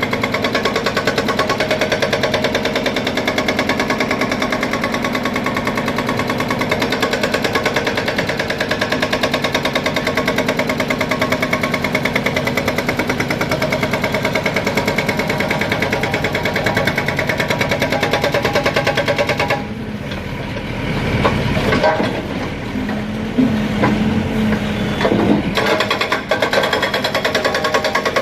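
An engine running with a fast, even clatter. About two-thirds through it drops and falters for a few seconds, with a short steady tone.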